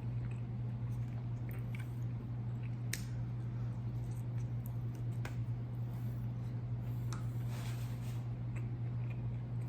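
Close-miked mouth sounds of a person eating: soft wet chewing with a few sharp clicks and a short crunchy stretch near the end, over a steady low hum.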